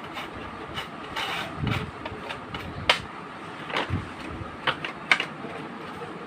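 Scattered sharp clicks and light knocks from parts and tools being handled, over a steady background hum. The sharpest clicks come about three and five seconds in.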